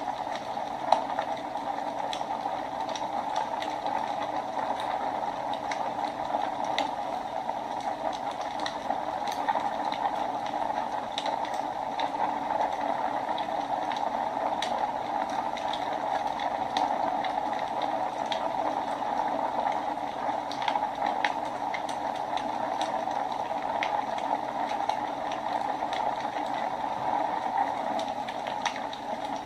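Wood fire burning in a fireplace: a steady hiss of flames with frequent small, sharp crackles and pops scattered throughout.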